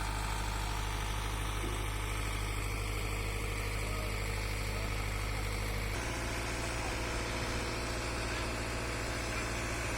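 Engine of construction machinery running steadily at idle, a constant low hum. About six seconds in the hum shifts abruptly to a slightly different pitch pattern.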